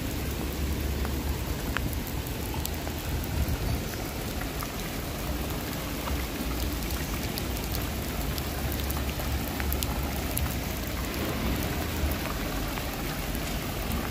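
Steady rain falling on wet paving, an even hiss dotted with fine drop ticks, over a low rumble.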